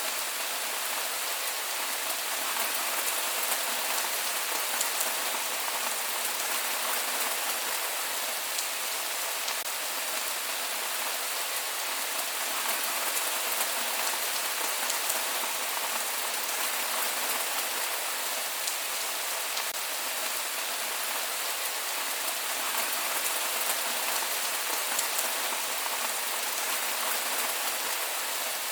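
Steady rain falling, a dense even patter of drops with scattered sharper drop ticks and no thunder.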